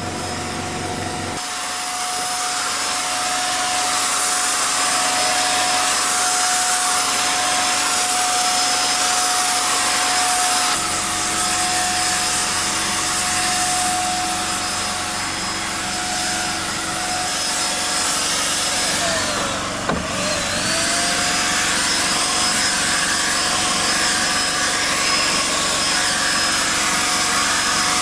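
A motor running steadily with a constant whine over a rushing noise; about twenty seconds in its pitch dips sharply, as if briefly loaded, and quickly comes back up.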